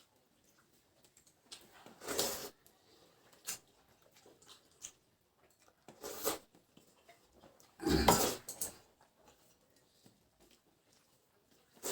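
Eating sounds of people eating rice meals by hand, with three short noisy bursts, the loudest about eight seconds in, and a few faint clicks between them.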